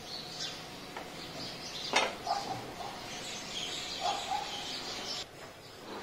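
Birds chirping in short scattered calls, with one sharp knock about two seconds in; the sound cuts off abruptly a little after five seconds.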